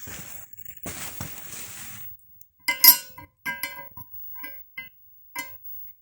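A rustle, then about seven ringing metallic clinks, like hard metal pieces knocking together.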